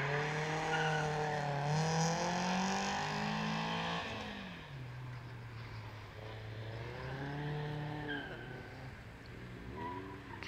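Nissan Silvia S13's engine accelerating hard, its revs climbing twice in the first four seconds. About four seconds in the note falls and grows fainter. It then rises again twice as the car pulls away into the distance.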